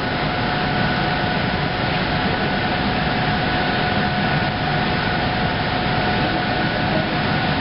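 Passenger train standing at the station, its onboard equipment running with a steady hum and a constant high-pitched whine over a continuous hiss.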